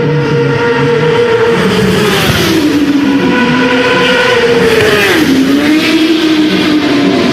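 Superbike racing motorcycle engine running hard at high revs. Its pitch falls about two seconds in, climbs again, then falls once more about five seconds in, as the throttle or gears change.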